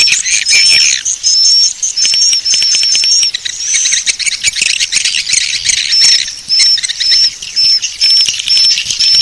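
Swiftlet call recording: dense twittering and chirping of swiftlets, the lure sound played to draw them into a nesting house. Over the chirping runs a row of short high whistles, longer at first and then repeating about two to three times a second from about six seconds in.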